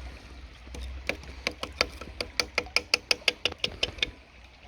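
A quick run of sharp clicks or taps, about six a second, starting about a second in and stopping shortly before the end, over a low steady rumble.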